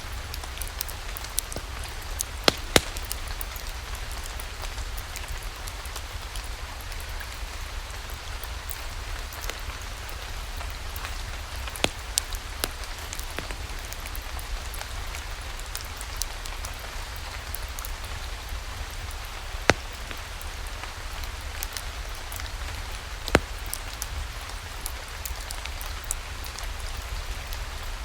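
Steady rain, a continuous hiss dotted with frequent sharp ticks and pops. A few much louder pops stand out: two close together early on, a pair around the middle, and single ones later. There is a low steady rumble underneath.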